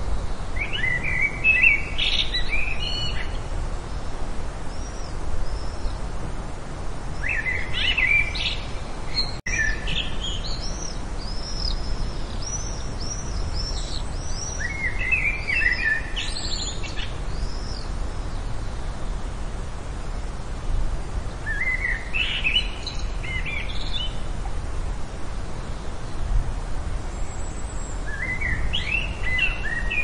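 Songbirds singing in short chirping, warbling phrases that recur every few seconds, with a thinner, higher series of whistled notes in the middle. A steady low outdoor rumble runs underneath, and the sound cuts out for an instant about nine seconds in.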